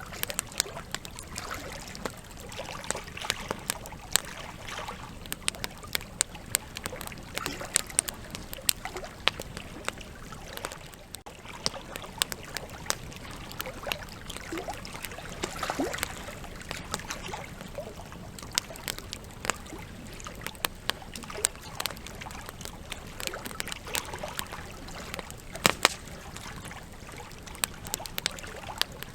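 Wood campfire burning, with continuous irregular crackling and sharp pops from the burning logs over a soft hiss of flame; a couple of pops about three quarters of the way through are much louder than the rest.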